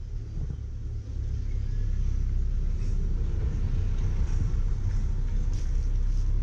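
A low, steady rumble that gets louder about a second in.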